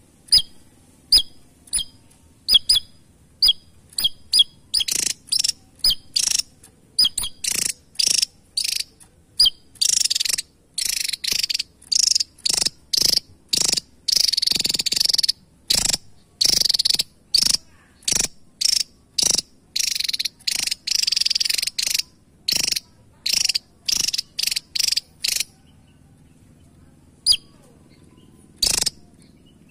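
Javan tesia calling: a few sharp, high single notes, then a long fast series of harsh, buzzy notes lasting about twenty seconds, and after a short pause two more single notes near the end.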